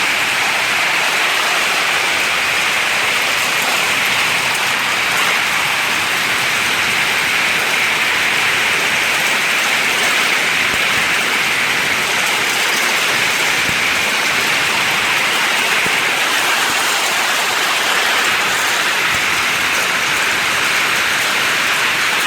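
Heavy rain falling hard and steadily, one loud unbroken hiss.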